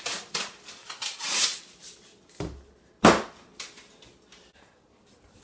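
Can of refrigerated biscuit dough being opened: the paper wrapper rustles and tears, then a single sharp pop about three seconds in as the cardboard tube bursts open along its seam.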